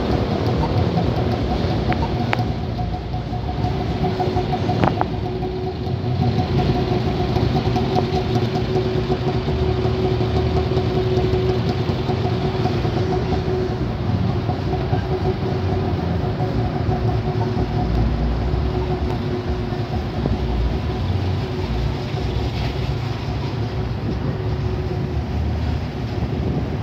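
Engines of a slow procession of classic cars running and idling as they creep along in street traffic: a continuous low rumble of several engines at once, with a steadier droning note for several seconds in the middle.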